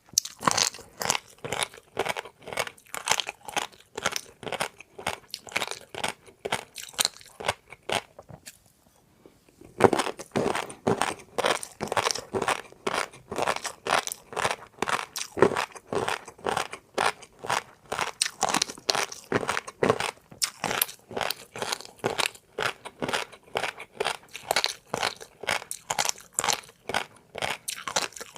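A person chewing crunchy food close to the microphone: a fast run of crisp crunches, several a second, that stops for about a second near the middle and then resumes.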